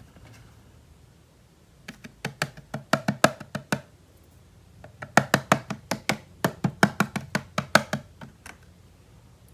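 Rapid tapping or knocking on a hard object, likely toy packaging or a toy, in two runs of about six taps a second, the second run longer.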